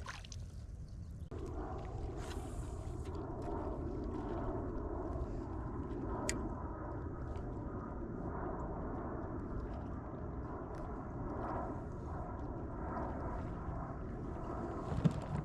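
Kayak under way on the water: a steady hum with water noise that starts about a second in, over a low wind rumble on the microphone and a few light clicks.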